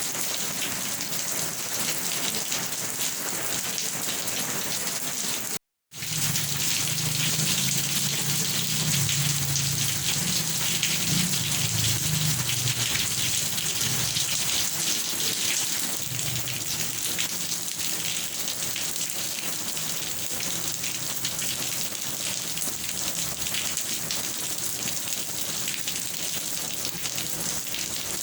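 Steady heavy rain falling on surfaces, a dense hiss of drops. The sound cuts out for a fraction of a second about six seconds in, and a low rumble sits under the rain for several seconds after that.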